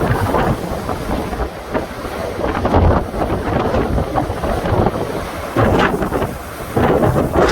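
Strong wind buffeting the microphone at sea, in uneven gusts with a heavy low rumble.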